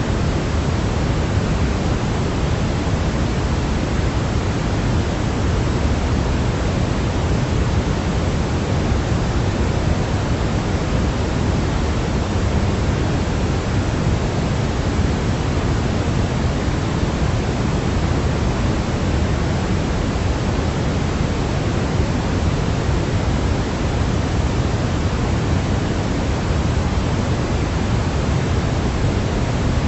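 Steady white-noise sleep sound: an even, unbroken hiss, fuller in the low end, that does not change at all.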